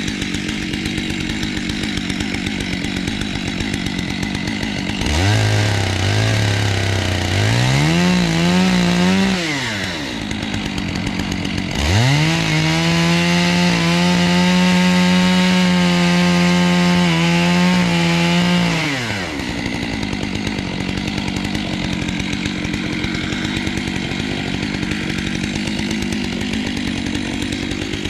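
Two-stroke chainsaw idling, revved up and back down about five seconds in, then throttled up again and held at high revs for about seven seconds before dropping back to idle.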